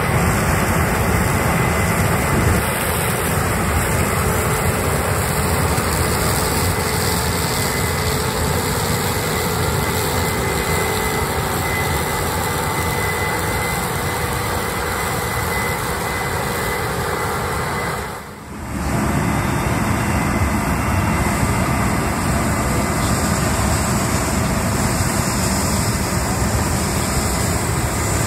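Large diesel farm harvest machinery running steadily in a corn field: combine harvesters and tractors working. The noise drops out briefly about two-thirds of the way through.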